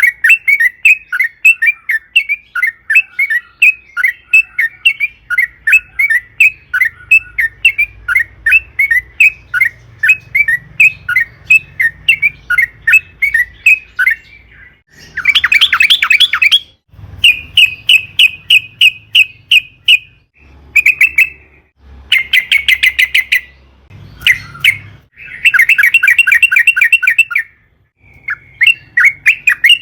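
Yellow-vented bulbul (trucukan) calling: a long run of short, quick notes, about three a second, then from about halfway through louder bursts of rapid chattering trills, each lasting one to two seconds, with short pauses between.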